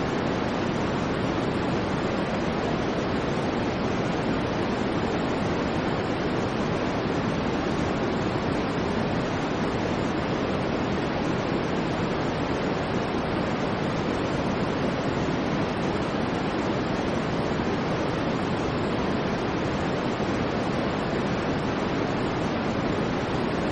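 Steady synthetic noise, a constant even hiss with most of its weight in the lower middle range, unchanging throughout.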